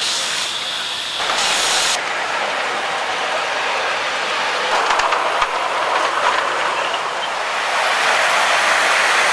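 Live steam scale model locomotive running with a steady hiss of steam, with a few faint clicks about five seconds in.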